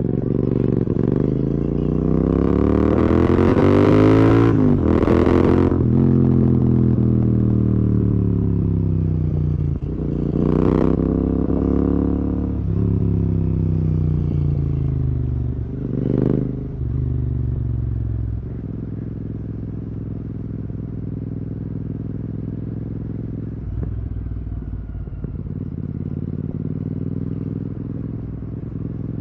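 Royal Enfield Continental GT 650's parallel-twin engine through an aftermarket Red Rooster exhaust, pulling up through the gears, its revs climbing and dropping at each shift. It then eases off and runs low and steady for the last ten seconds or so.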